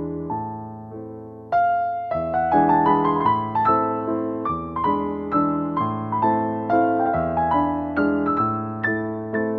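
Gentle piano music: single notes and chords struck and left to fade over held bass notes, growing louder with a new phrase about a second and a half in.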